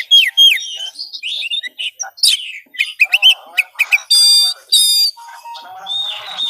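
Oriental magpie-robin (kacer) singing a loud, varied song: gliding whistled notes, short chips, a quick buzzy trill midway and a long scratchy chattering phrase near the end.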